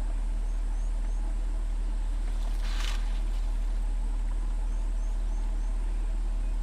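Steady low drone of an idling vehicle engine, with one short rushing hiss about three seconds in and a few faint, quick high chirps.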